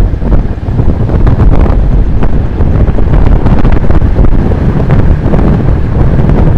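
Heavy wind buffeting on the microphone of a camera riding on a road bike during a fast descent: a loud, steady rush of low noise.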